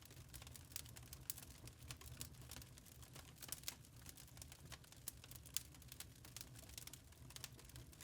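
Wood fire crackling in a fireplace: quiet, frequent irregular snaps and pops over a low steady rumble.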